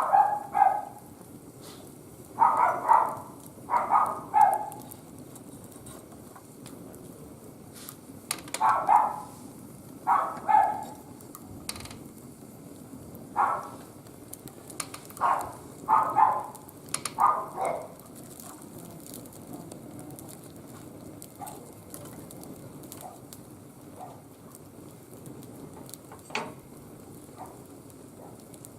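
A dog barking in short clusters of two or three barks every few seconds, with quieter stretches between. Under it, a wood fire gives a low steady crackle with occasional sharp ticks.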